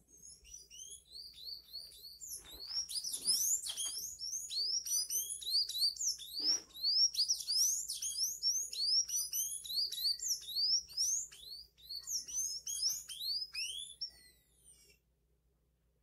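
Small songbirds chirping: a fast, dense run of high, rising chirps that stops about fifteen seconds in.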